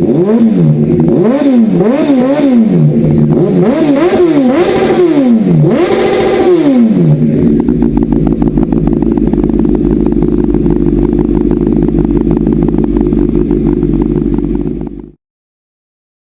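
Honda CBR929RR inline-four sport bike through a Dominator GP1 slip-on silencer, revved in several quick blips that rise and fall, then settling into a steady idle. The sound cuts off abruptly near the end.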